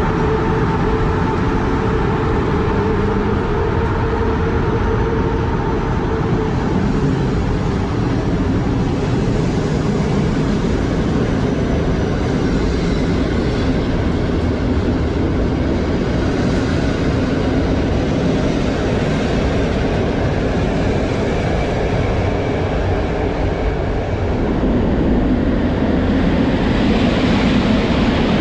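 Passenger train coaches rolling along an underground station platform: a steady rumble of wheels with faint steady hums. Near the end an electric locomotive passes close by, and the sound grows louder and brighter.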